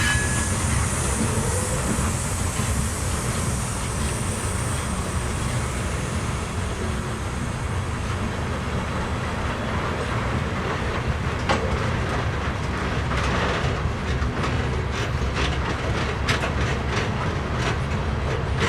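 Loaded coal train cars rolling slowly past, a steady low rumble with wheels clicking over the rail joints, the clicks coming more often in the last third.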